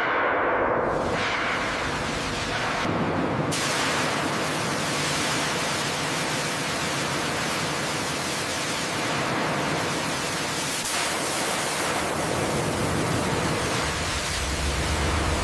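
Steady rushing hiss that spreads into a brighter, fuller hiss about three and a half seconds in, with a low hum coming in near the end.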